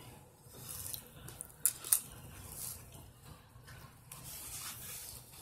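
Close-up wet chewing and mouth sounds of a person eating, with two sharp clicks of a fork against the plate a little under two seconds in.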